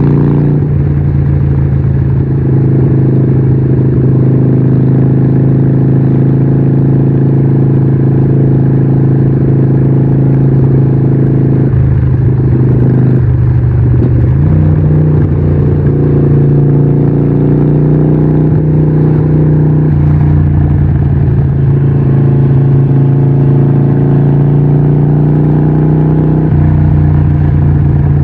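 Harley-Davidson 1200 Nightster's 1200cc Evolution V-twin running loud through a Vance & Hines exhaust at steady revs. Its note holds level, then steps up slightly about halfway through and stays there.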